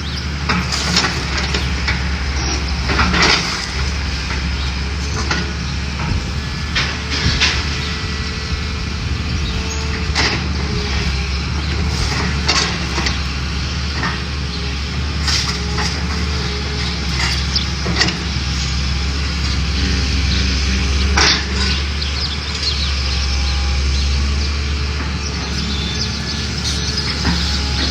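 Heavy demolition machinery running steadily while a building is knocked down, with repeated cracks, crashes and clattering of breaking walls and falling debris.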